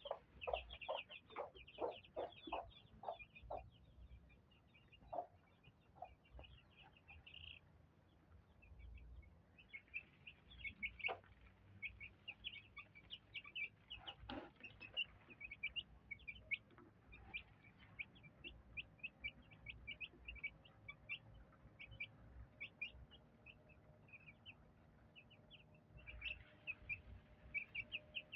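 Three-week-old chicks peeping almost continuously in short, high cheeps. A broody hen clucks in a quick, even run of low clucks over the first few seconds, then only now and then.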